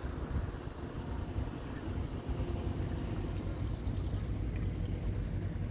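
Strong wind buffeting the microphone: a heavy, gusting low rumble.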